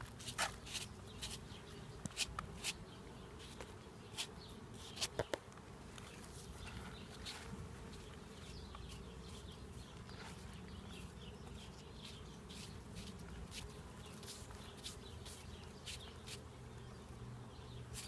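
A mass of honeybees buzzing steadily around an opened hive super, stirred up as capped honey frames are brushed clear of bees, with short clicks and scrapes of frame handling scattered throughout.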